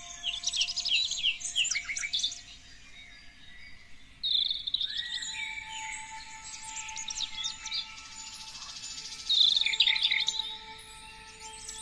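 Songbirds chirping and singing in three bursts of rapid, high trills, with quieter calls between them. Faint, steady held tones of soft background music sit underneath.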